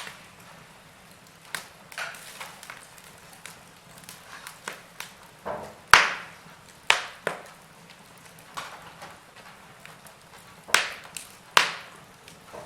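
Wood fire crackling in a fireplace: irregular sharp pops and snaps from the burning logs over a faint steady hiss, the loudest pop about six seconds in and two more strong ones near the end.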